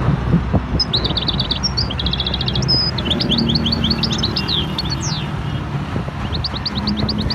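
Small birds chirping in rapid series of short high notes, with one falling note about five seconds in, over a steady low rumble.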